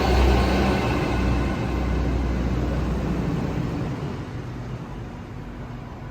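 A train running past on the line, its low rumble and whine loud at first and fading steadily as it moves away.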